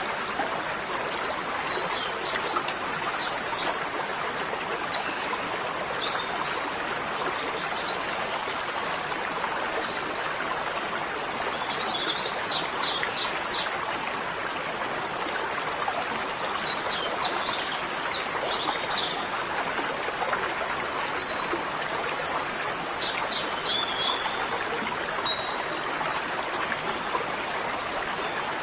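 Small birds chirping in quick runs of repeated high notes, a burst every few seconds, over a steady rushing noise like flowing water.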